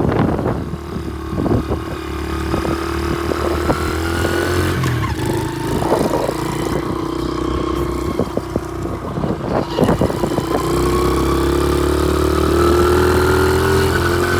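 Small single-cylinder pit bike engine running while being ridden, with scattered knocks and rattles over the first part. Its pitch rises steadily over the last few seconds as it speeds up.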